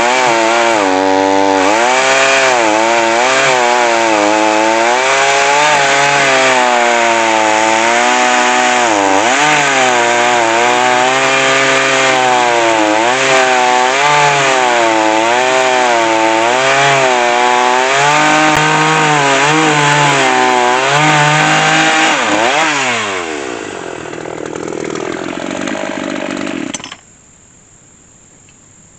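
Chainsaw mounted in an Alaskan chainsaw mill running at high revs under load while ripping lengthwise through a log, its pitch wavering as the load changes. Near the end the revs fall away to idle, and the engine shuts off a couple of seconds before the end.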